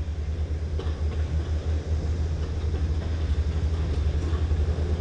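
A steady, fluttering low rumble.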